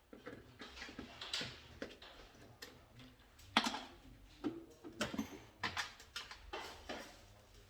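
Irregular clicks and light knocks of hand work on control-panel wiring: tools, wires and small parts being handled and set down, with a sharper knock now and then.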